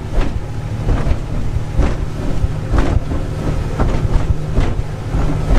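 Speedboat engine running at speed under wind buffeting the microphone, with a thud about once a second as the hull hits the waves.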